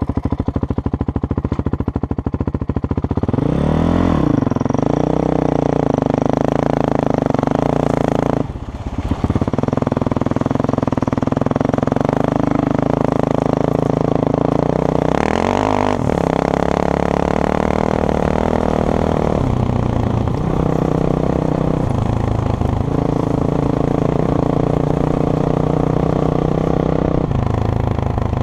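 Honda CRF450X's single-cylinder four-stroke engine running under way over gravel, revving up about four seconds in and again near the middle, with a brief drop in throttle around nine seconds in and several shorter dips later.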